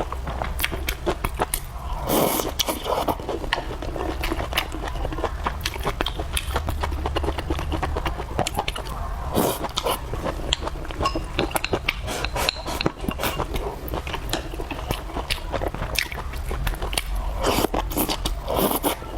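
Close-miked chewing and biting of fried noodles and vegetables with rice: a steady run of quick wet clicks and crunches, with a few louder mouthfuls spread through.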